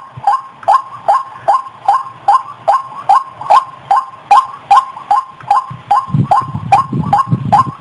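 White-breasted waterhen (ruak-ruak) calls played as a bird lure: short, sharply falling notes repeated evenly at about two and a half a second. A low rumble sits underneath from about six seconds in.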